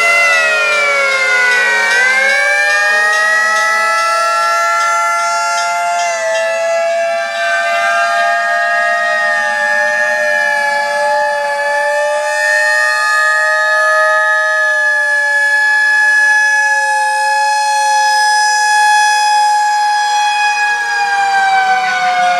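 Several antique fire trucks' sirens wailing at once, their overlapping pitches sliding up and down. One dips and climbs again in the first couple of seconds, then the tones hold high and fairly steady.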